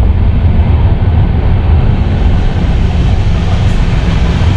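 A moving passenger train heard from inside a sleeper coach: a steady, loud, deep rumble of the wheels and running gear on the track, with the rush of air through the open window.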